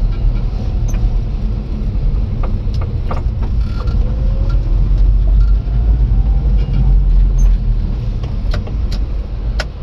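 Cab interior of a Japanese mini truck driving along: a steady low rumble of the small engine and its bias-ply UTV tyres on the road, with a few light clicks and knocks scattered through.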